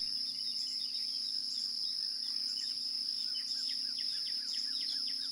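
Steady high-pitched insect chorus with many short, quick bird chirps scattered throughout, over a faint low hum.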